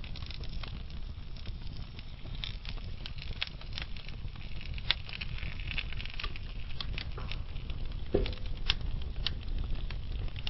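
Burning logs in a wood fire crackling, with irregular sharp pops and snaps over a steady low rumble. About eight seconds in there is a short whistling note.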